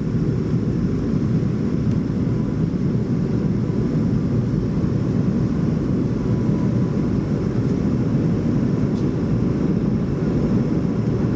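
Steady cabin noise inside a Boeing 737-400 with its CFM56 engines running: an even, unbroken rush, heaviest in the low range, with faint steady tones above it.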